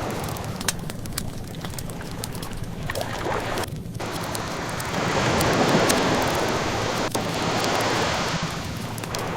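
Ocean waves washing ashore, with one wave swelling about halfway through, under the scattered crackles and pops of a burning wood fire.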